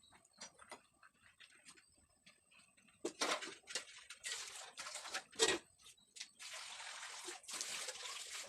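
Water splashing and pouring: faint clicks at first, then irregular splashes from about a third of the way in, turning into a steadier pour near the end.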